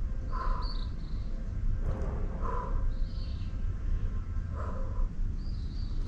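A bird calling outdoors, a short call repeated about every two seconds, over a steady low rumble.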